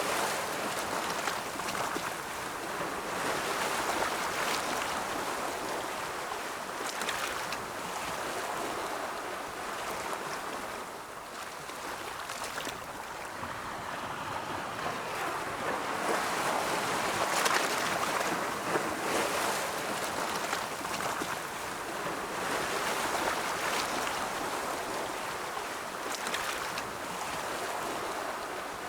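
Ocean waves rolling onto a shore, a continuous wash of surf that swells and recedes every few seconds, loudest around the middle.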